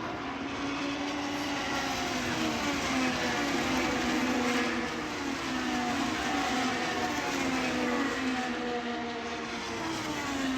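Race car engines running hard on track, their pitch repeatedly falling and rising as the cars pass and go through the turns.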